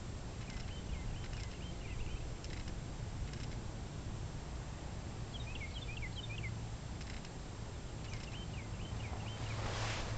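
Small birds chirping in three short runs of quick rising and falling notes, over a steady low hum. Just before the end, a brief rush of noise as the camera is swung.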